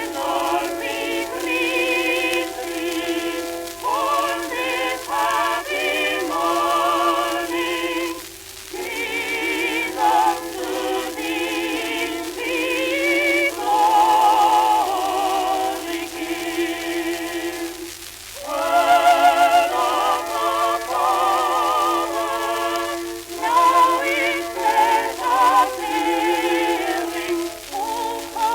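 Early shellac phonograph record from the 1900s–1920s playing music: a melody with heavy vibrato, in an operatic style, over sustained accompaniment. The sound is thin and narrow, with little bass or treble and a faint hiss. There are short breaks between phrases about 8 and 18 seconds in.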